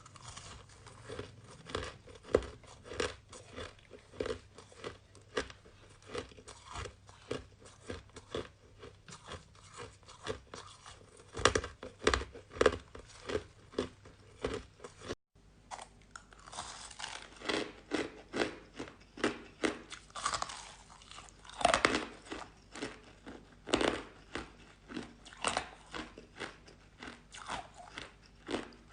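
Close-miked mouth sounds of purple-flavoured shaved ice being bitten and chewed: a dense, irregular run of crunches, with a momentary break about halfway through.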